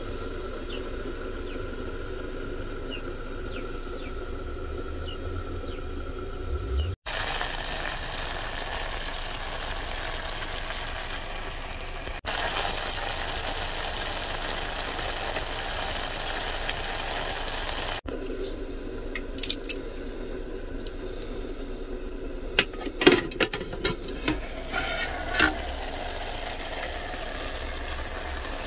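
Beef mince with onion, carrots and peas sizzling in an aluminium Trangia pot over its burner, a steady hiss whose level shifts abruptly a few times. Between about two-thirds of the way in and near the end, a run of sharp metallic clinks from a utensil against the pot.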